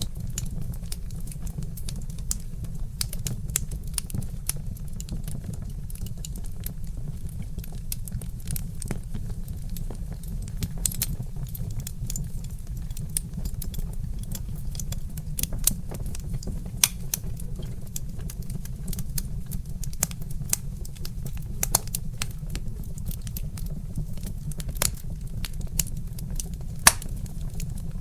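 Wood fire crackling, with frequent irregular sharp snaps and pops, a few louder than the rest, over a steady low rumble.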